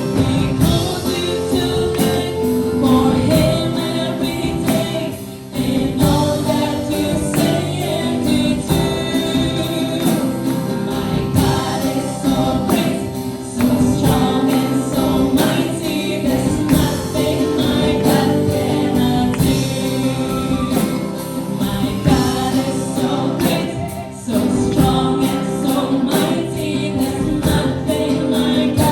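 Worship team performing a gospel song: a group of voices singing together over instrumental accompaniment.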